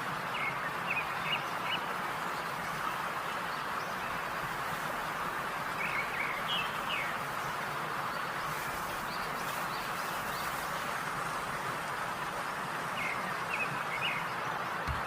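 Hot oil sizzling steadily as meat deep-fries, with three brief clusters of short high chirps.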